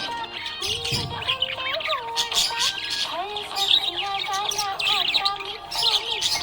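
Budgies chirping and twittering in quick, high bursts, over background music with a melody.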